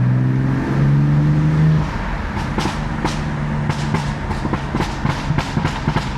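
BMW F80 M3's twin-turbo S55 inline-six on its stock exhaust. It accelerates with rising revs for about two seconds, then the driver lifts off and it runs on with a rapid string of exhaust pops and crackles: the stock overrun burbles.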